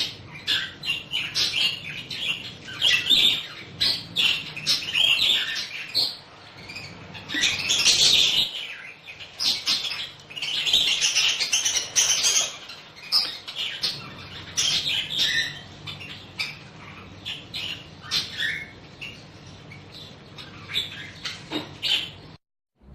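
A flock of budgerigars chirping and chattering, with many short calls overlapping. The sound cuts out briefly near the end.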